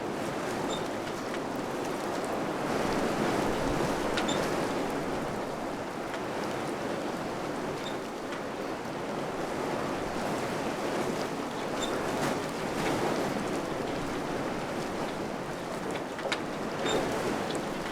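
Wind blowing in gusts: a steady rushing that swells and eases every few seconds, with a few faint ticks.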